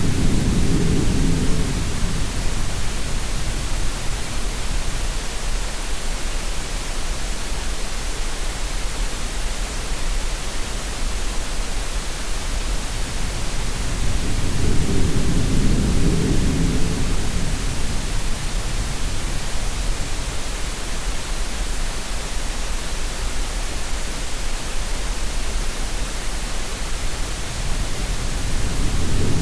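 Steady green-noise hiss layered with sea sounds: a low surge like a wave swells and fades about every fifteen seconds, near the start, in the middle and again at the end.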